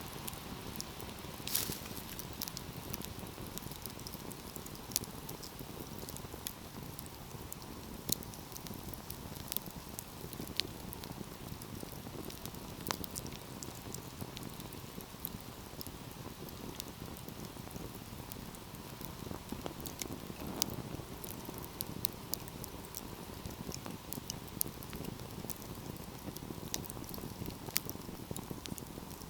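Wood fire burning with a steady low rush of flames and irregular sharp crackles and pops, one louder pop about one and a half seconds in.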